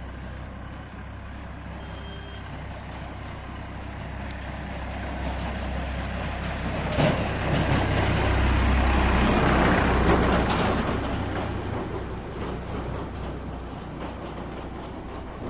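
A heavy vehicle passes by. Its deep rumble builds up to a peak about two-thirds of the way through, with a couple of sharp knocks near the loudest point, then fades away.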